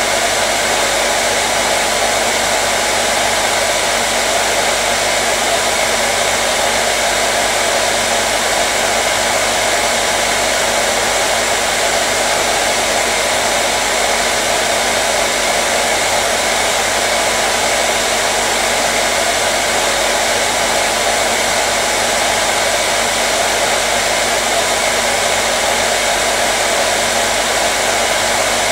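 Hair dryer running steadily: a loud, unchanging whoosh of blown air with a faint steady motor hum underneath.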